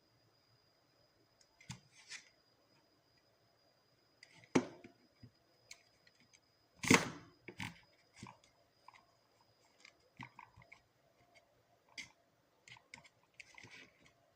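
Irregular clicks, taps and knocks of small objects being handled, the loudest about four and a half and seven seconds in, over a faint steady high whine.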